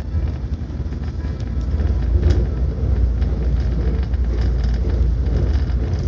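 Cabin noise of a Kuala Lumpur airport express train running at speed: a steady low rumble of wheels on rail, with a few light clicks and rattles. It grows a little louder about two seconds in.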